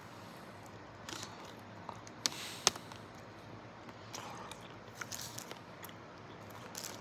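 Close-up biting and chewing of a chocolate-dipped banana coated in pistachios and almonds. Two sharp crunches come a little over two seconds in, with softer chewing sounds scattered through the rest.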